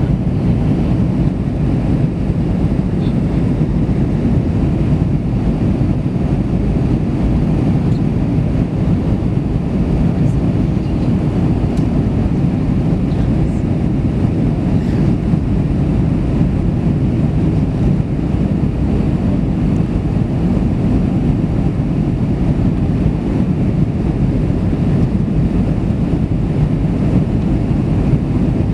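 Swiss Airbus A320 in flight: a steady, loud low rumble of airflow and jet engines.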